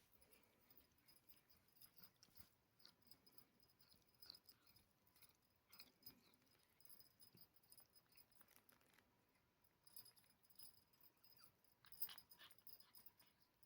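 Faint, scattered light ticks and rustles of cats moving about and scuffling, with a slightly louder cluster of clicks near the end.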